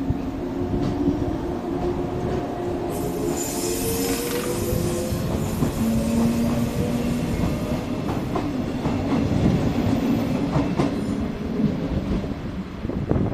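JR 115 series electric multiple unit pulling out of a station: its motor whine rises in pitch as it gathers speed, with a high hiss for a few seconds early in the run. The wheels then clack over rail joints as the cars roll past.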